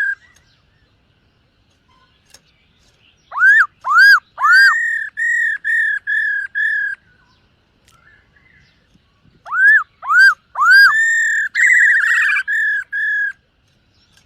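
Black-throated laughingthrush singing two loud whistled phrases. Each opens with three swooping notes and runs into a string of about six even, level whistles, the second with a brief warble in its middle.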